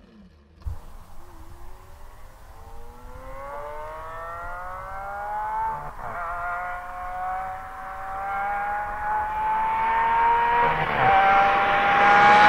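Lamborghini Aventador LP700-4's V12 accelerating hard from a distance toward the listener. Its pitch climbs through the gears, with upshifts about halfway through and again near the end, and it grows steadily louder as the car closes in.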